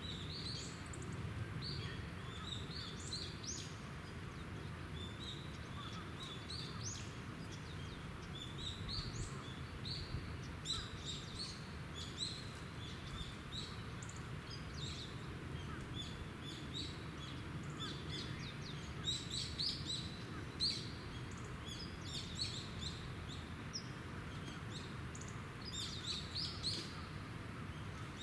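Birds chirping: many short, high, sharp calls, scattered and overlapping throughout, over a steady low background rumble.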